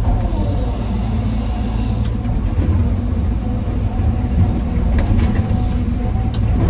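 Heavy diesel machinery engine running steadily, its pitch shifting in the first second, with a few sharp knocks about five and six seconds in.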